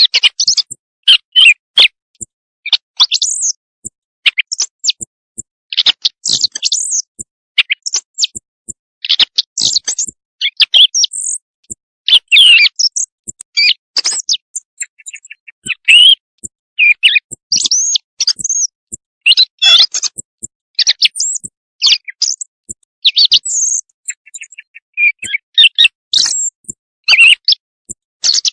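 Recorded quail calls used as a night-time hunting lure: a dense, continuous run of short high chirps and sweeping notes with a few rapid trills, repeating over and over.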